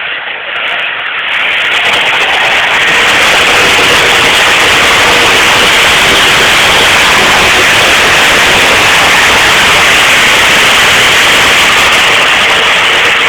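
Pulling tractor's engine at full throttle pulling the sled, loud enough to overload the microphone into a harsh, distorted wall of noise. It builds over the first couple of seconds and then holds steady.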